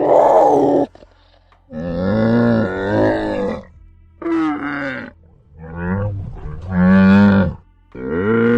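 An animal calling five times in a row, loud pitched calls each lasting about half a second to two seconds, with short pauses between them.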